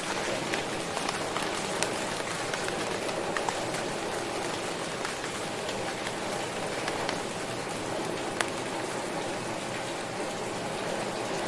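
Steady rain falling, with scattered sharper drop impacts ticking through it. One drop is louder than the rest about eight seconds in.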